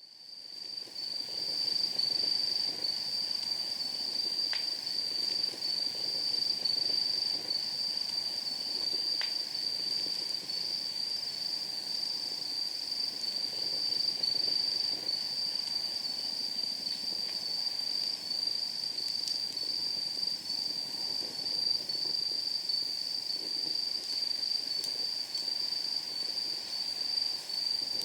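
Night insects chirring in one steady high-pitched trill, over a wood fire crackling in a steel fire pit with a few sharp pops from the burning firewood. The sound fades in over the first second or two.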